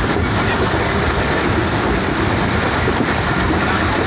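A passenger train running along the track, heard from inside a carriage: a steady rumble and rattle of the wheels and coach.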